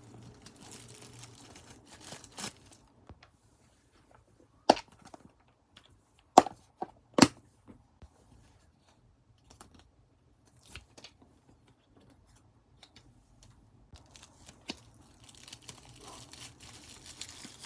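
Plastic photocard packaging being handled: sleeves and wrap crinkling and tearing, with a few loud sharp snaps in the middle.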